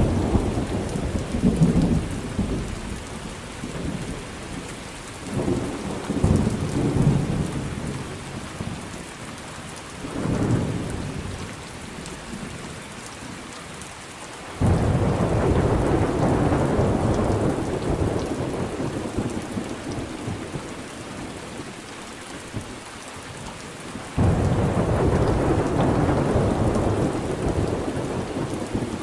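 Steady rain with thunder rumbling again and again. Two louder peals start abruptly, about halfway through and near the end, each rolling on for several seconds.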